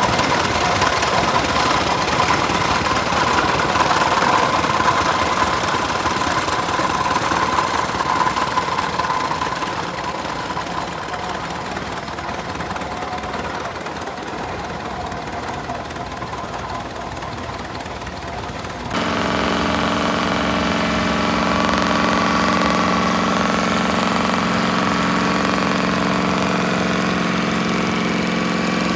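Large farm tractor engines running steadily while pulling plows. About nineteen seconds in the sound changes abruptly to a different, steadier engine drone.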